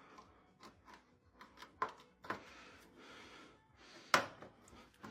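Scattered clicks and knocks of hands working on a washing machine during reassembly, the loudest knock about four seconds in.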